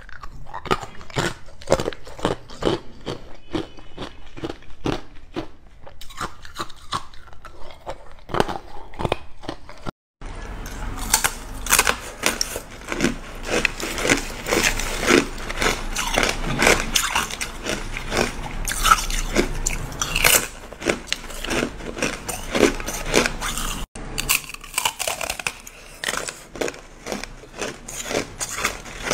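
A person biting and chewing ice: a dense run of sharp crunches and cracks, with two very brief drop-outs, about ten seconds in and again near the end.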